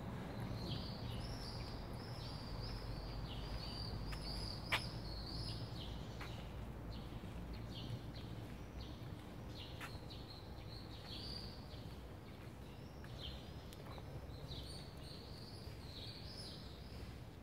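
Small birds singing outdoors, a steady run of short, quick chirps and twitters, over a low, constant background rumble.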